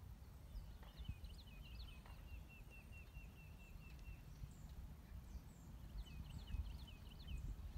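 A songbird singing two phrases of quick repeated high notes, the first lasting about three seconds, the second shorter near the end, over a low steady rumble of wind on the microphone.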